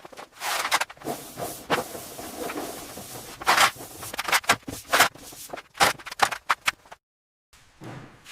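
A run of scrapes and sharp knocks, irregular and closely spaced, that stops dead for about half a second near the end before resuming.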